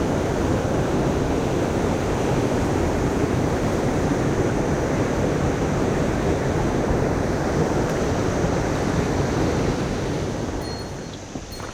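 Rushing water of a mountain headwater stream: a loud, steady roar that drops off sharply about ten seconds in.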